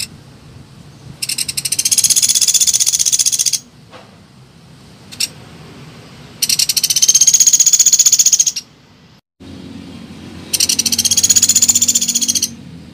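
Recorded call of a pelatuk beras woodpecker: three long, very fast, high rattling trills of about two seconds each, with pauses between them, played loud as a lure call.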